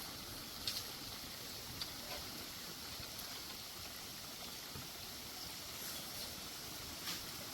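Steady rushing of a river or stream, with a few light sharp clicks about a second in, around two seconds and near the end.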